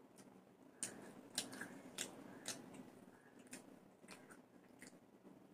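Faint, irregular wet clicks and smacks of someone chewing and eating food with the fingers, a dozen or so over a few seconds.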